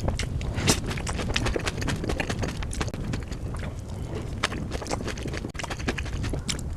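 Close-miked eating of dahi puri: irregular crisp crunches and clicks as the fried puri shells are bitten and chewed, several a second.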